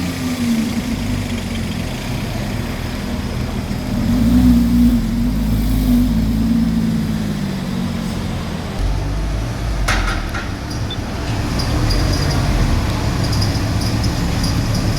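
Supercar engine and exhaust note rising and falling as the car revs and moves, loudest about four to six seconds in, then settling to a lower rumble. A single sharp click about ten seconds in.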